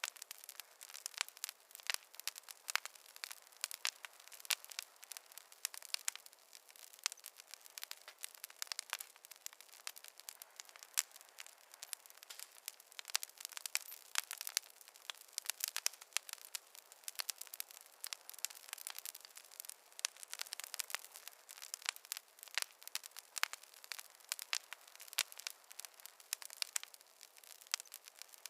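Wood fire crackling: a dense, irregular stream of small pops and snaps, crisp and thin, with no low rumble.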